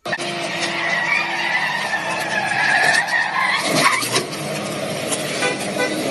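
Car tyres squealing in a skid, a wavering high squeal over the running engine, with shorter squeals near the end.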